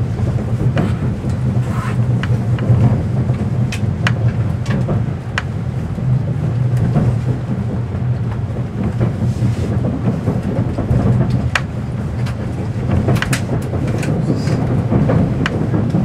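Running noise heard inside a 583-series electric sleeper train: a steady low rumble from the bogies, with irregular sharp clicks as the wheels pass over rail joints and points.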